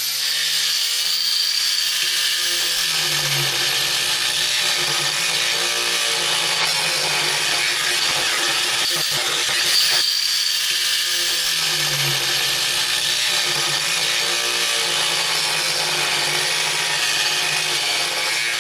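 Angle grinder running steadily as it grinds out old welds in the thick steel of an excavator bucket, cutting a V-groove for new weld.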